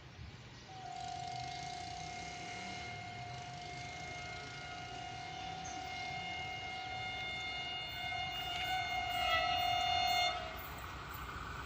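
Locomotive horn of a Pakistan Railways train sounding one long chord-like blast of about ten seconds, growing louder as the train approaches, then cutting off abruptly. The low rumble of the approaching train runs beneath it and turns into a louder rush after the horn stops.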